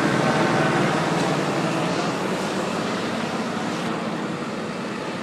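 Steady vehicle and road noise, easing slightly toward the end.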